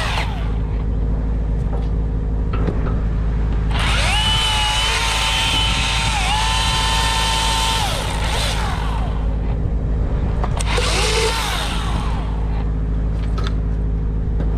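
Milwaukee battery-powered chainsaw spinning up with a rising whine about four seconds in, running steadily for about four seconds with a brief dip in pitch, then a short second burst. A steady engine drone runs underneath.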